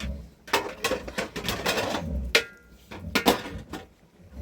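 Dishes and metal utensils clattering: a series of sharp clinks and knocks, thickest around the middle.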